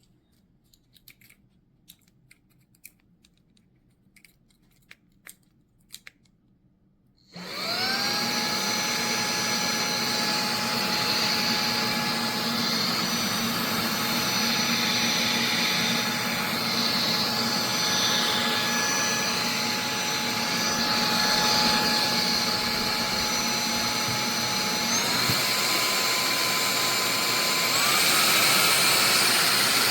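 A few light clicks of handling, then a REDTIGER cordless handheld vacuum switches on. Its motor whine rises quickly to a steady pitch under a rushing airflow hiss. Near the end the whine steps up in pitch twice.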